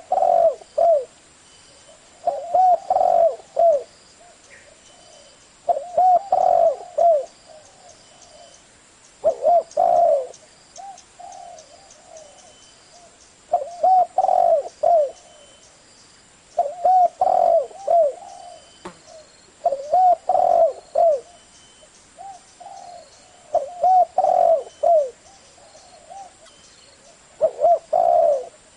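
Spotted dove cooing: short phrases of several coos, repeated about every three to four seconds.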